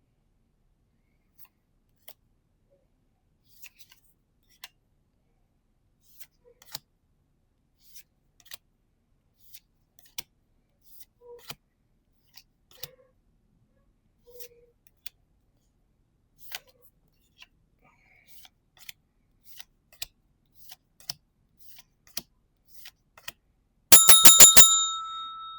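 Faint scattered clicks and taps of trading cards being handled and flipped. Near the end a loud, bright bell rings in a quick trill of about seven strokes and then fades; it marks a good pull.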